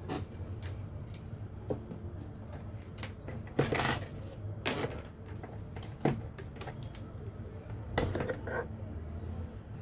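Scattered clicks and knocks, a few seconds apart, over a steady low hum.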